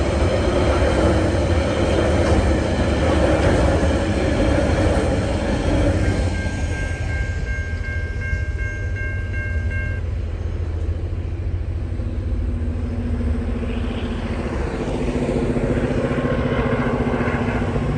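Freight train's container wagons rumbling past over a level crossing, the rumble dying away after about six seconds. A steady high tone then sounds for a few seconds and stops. Road vehicle engines are heard in the later seconds.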